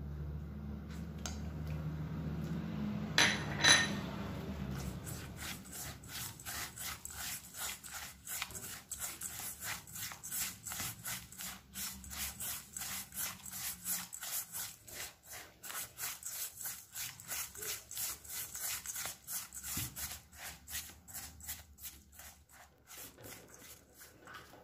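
Quick rhythmic scraping strokes of a kitchen utensil, about three a second, keeping up for most of the stretch. Before they start there is a low hum and one sharp ringing clink.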